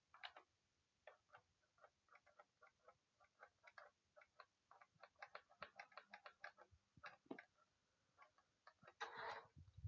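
Faint, irregular small clicks, a few a second, with a short rushing burst near the end.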